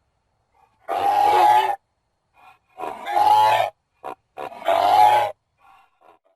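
Goose honking: three drawn-out honks, each just under a second long, with faint short calls between them.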